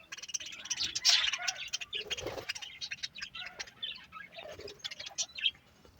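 Budgerigars chirping and chattering in quick, short, high notes, louder for a moment about a second in.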